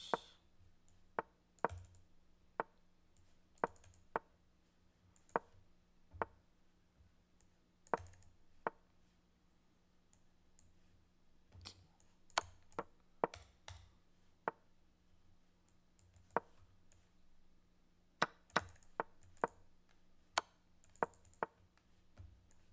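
Sharp single clicks at irregular intervals, about thirty of them, with a pause of a few seconds midway: moves being made quickly in a fast online chess game. A faint steady hum runs underneath.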